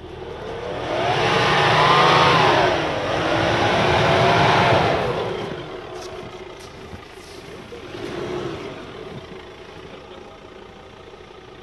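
Off-road 4x4 engine revving hard twice in a row, each rev climbing and falling over about two seconds, then dropping back to a lower running sound with a smaller rev near the end.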